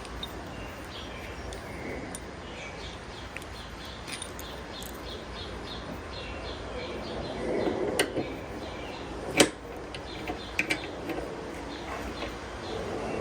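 Hand work on a motorcycle's rear rack: metal brackets and screws being handled, with two sharp clicks about eight and nine seconds in, the second the louder. Birds chirp faintly in the background.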